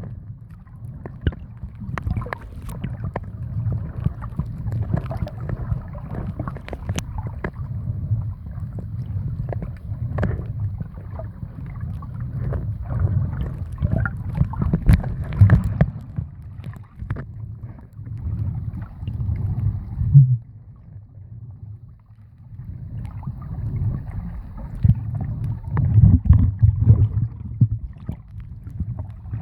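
Muffled water noise against the microphone, a low rumble with gurgles and scattered sharp clicks, easing off briefly about two-thirds of the way through.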